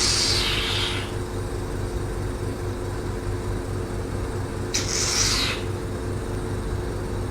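Hydrofacial machine's vacuum pump running with a steady low hum. Two short hissing rushes of suction air come through, one right at the start lasting about a second and another about five seconds in.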